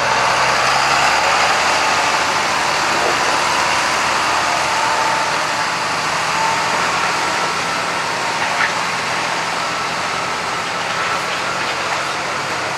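Farm tractor engine running steadily, growing slightly fainter toward the end.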